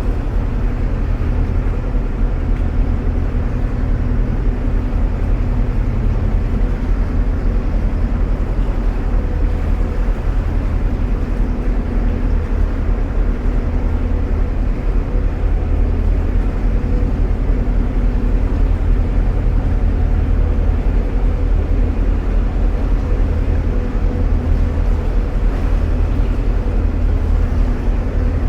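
A narrowboat's engine running steadily at cruising speed inside a canal tunnel, a constant low hum with no change in pace.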